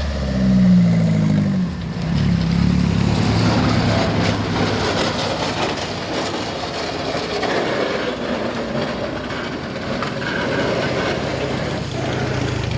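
A car's engine running as it rolls past, its pitch dipping and rising for about the first two seconds, then settling into a steady low note.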